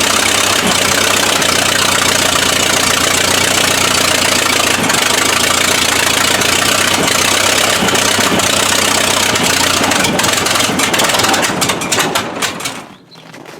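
An engine idling steadily, loud and even, until the sound drops away sharply near the end.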